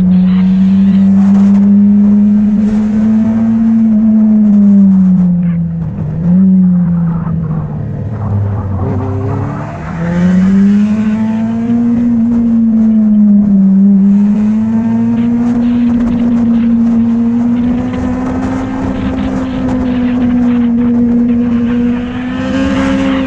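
Motorcycle engine running under way, its note rising and falling with the throttle. It dips about six seconds in and drops low around eight to nine seconds in, then climbs back up a second later.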